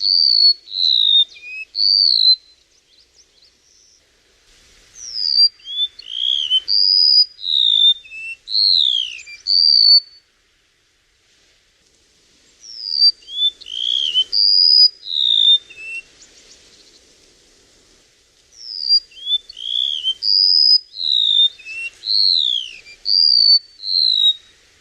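A chim sâu songbird singing: quick runs of short, high whistled notes, many sliding downward, in four bouts with short pauses between them.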